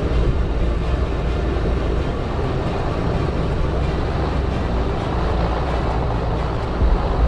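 Steady aircraft cockpit noise during a crosswind landing: an even engine and airflow rumble, heaviest in the low end.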